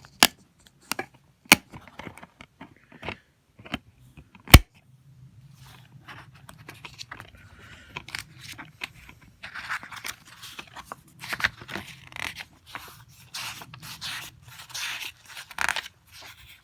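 Plastic DVD cases being handled: a few sharp clicks and knocks in the first few seconds, the loudest about four and a half seconds in, then a long stretch of scratchy rustling and scraping.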